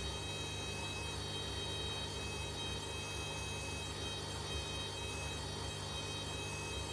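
Hoover H-Wash 300 washing machine running partway through its cycle: a steady low motor hum with a thin, constant high-pitched whine over it.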